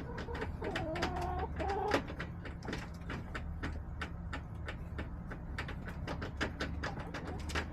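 Backyard hens clucking, with a drawn-out, stepping call in the first two seconds, over many short, sharp taps and a steady low hum.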